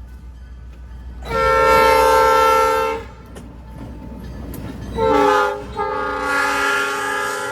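Freight locomotive air horn sounding a chord of several notes: a long blast, a short blast, then another long blast that is still going at the end. A low steady locomotive rumble runs underneath.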